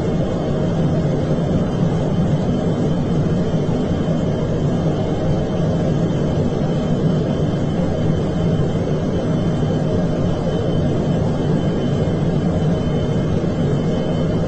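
Steady rumble of an aircraft in flight, engine and airflow noise as heard inside the cockpit, with a faint thin tone running through it.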